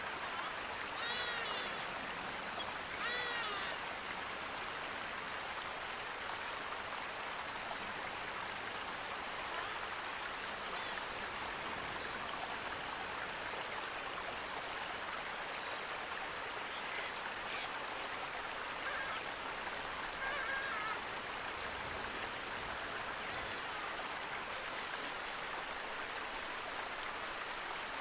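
Steady rush of a flowing stream, with two short calls from an animal about one and three seconds in and a few fainter ones later.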